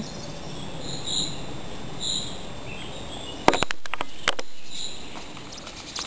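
Short, high chirps from a small bird, repeated a few times over a steady outdoor background hiss. A quick run of sharp clicks and knocks comes about three and a half seconds in.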